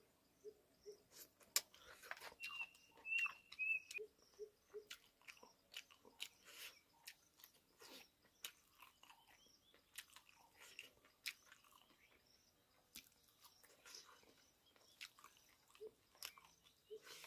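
A person chewing and crunching food eaten by hand, close up, with many short sharp clicks and smacks scattered throughout.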